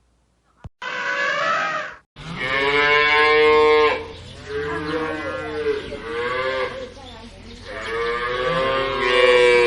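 A cow mooing in long drawn-out calls that bend in pitch, starting about two seconds in, with a brief raspy sound just before.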